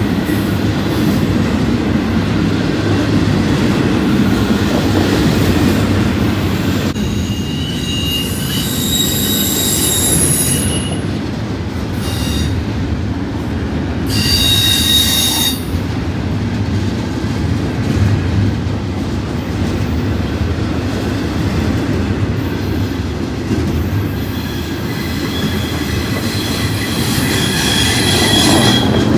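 Double-stack container train's well cars rolling past: a steady rumble of steel wheels on rail, with high-pitched wheel squeal on the curving track that rises and fades several times.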